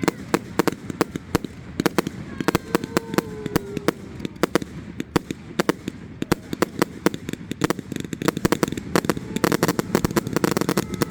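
Fireworks display: a rapid, irregular string of bangs and crackles, growing denser towards the end, with faint voices in the crowd.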